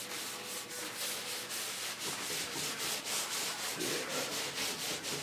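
A cast-iron hydraulic valve body being rubbed back and forth across 2500-grit sandpaper on a flat marble slab, a rhythmic gritty rasp of repeated strokes: lapping its mating surface flat and smooth.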